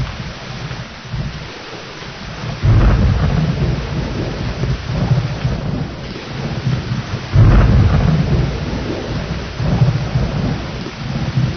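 Thunderstorm: steady heavy rain with thunder rumbling under it. Two loud claps of thunder break in about two and a half and seven and a half seconds in, each rolling on for a few seconds, with a weaker rumble near the end.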